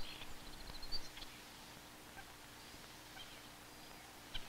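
Faint outdoor ambience with a few short high bird chirps, mostly in the first second and once more near the end, over a low steady hum.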